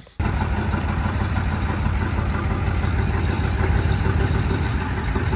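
A motor-driven machine starts abruptly and runs steadily, with a deep hum under an even hiss.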